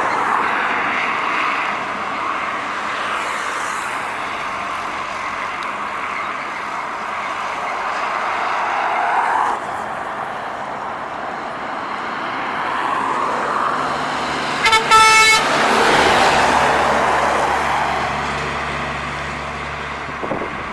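Heavy diesel trucks passing on a highway one after another, each a rising and falling rush of engine and tyre noise. About fifteen seconds in, a passing truck gives two short blasts on its horn, the loudest sound here.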